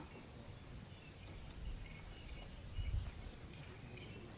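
Faint outdoor ambience: small birds chirping in short, scattered calls over a low rumble, with a couple of soft, dull thumps partway through.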